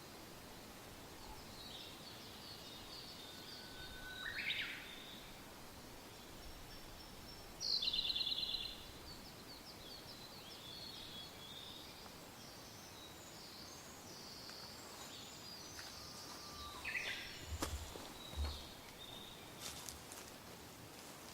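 Several wild birds singing and calling over a soft, steady wind, with the loudest call, a quick trill, about eight seconds in. A few faint clicks and low thumps near the end.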